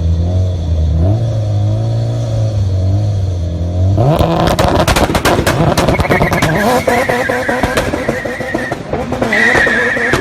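Mazda Miata engine held at steady high revs, stepping up once. About four seconds in it breaks into a burnout: rapid crackling pops, with tyre squeal rising over them a couple of seconds later.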